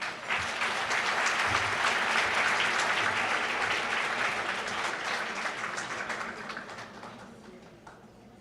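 Audience applauding in a large hall, starting at once, holding steady for a few seconds, then dying away gradually over the last few seconds.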